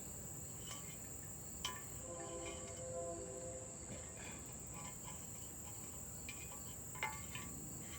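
Steady high-pitched trilling of crickets, with two light clicks, one near 2 seconds in and one about 7 seconds in.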